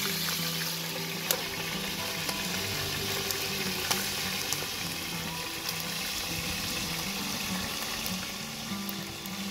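Chicken drumsticks frying in oil in a cast-iron pan, a steady sizzle, with a metal lid set over the pan; a couple of sharp clicks stand out, about a second and four seconds in.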